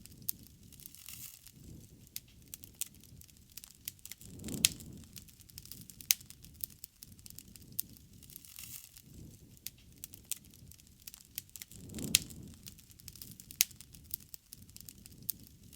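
Wood bonfire crackling, with frequent sharp pops and snaps. A low rush from the burning swells up briefly twice, about four and a half seconds in and again near twelve seconds.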